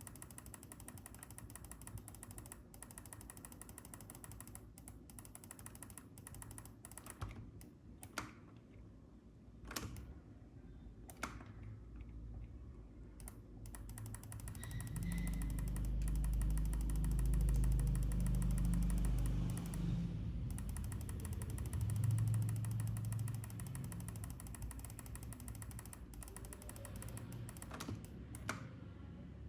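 Scattered sharp clicks of a computer mouse and keyboard being worked, a few seconds apart. A loud low rumble swells up in the middle and fades out again about ten seconds later.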